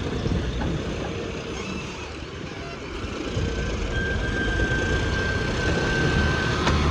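Heavy diesel machinery engine running, a steady low rumble that grows louder about three seconds in, with a thin steady high whine over it for the last few seconds.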